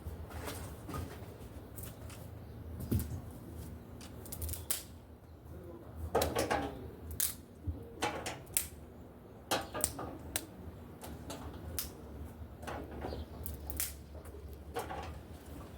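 Dry firewood snapping and crackling: irregular sharp clicks and cracks, denser around the middle, over a low steady rumble.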